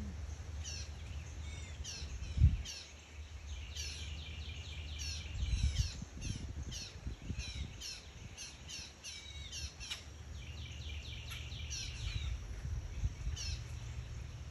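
Several wild birds chirping and calling, with quick runs of repeated chirps. A single low thump about two and a half seconds in, and some low rumbling.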